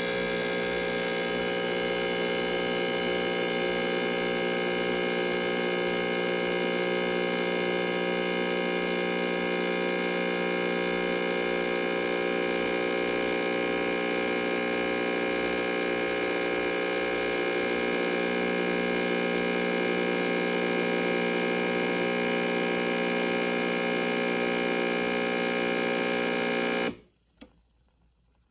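Ariete Cremissima espresso machine's pump running with a steady electric hum while it pulls a double espresso shot, then cutting off suddenly near the end as the shot finishes, followed by a single faint click.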